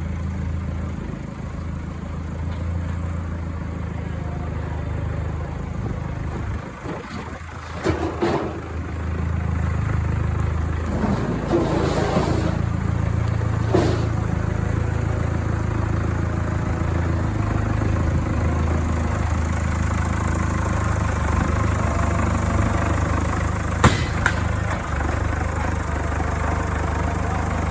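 Engine running steadily at a low pitch. It dips briefly about seven seconds in, there are several knocks over the next several seconds, and there is a sharp click near the end.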